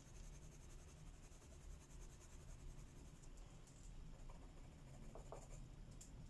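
Faint scratching of a colored pencil shading on paper, with a couple of light taps about five seconds in.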